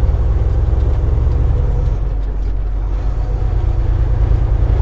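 Semi-truck diesel engine droning steadily inside the cab while driving, easing off slightly about two seconds in and building back up near the end.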